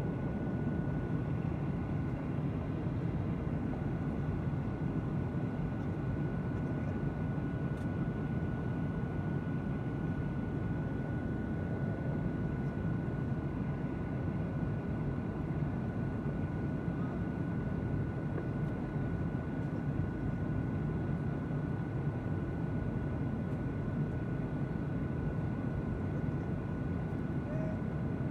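Airliner cabin noise during the approach: a steady low drone of jet engines and rushing air, with a thin steady whine held above it.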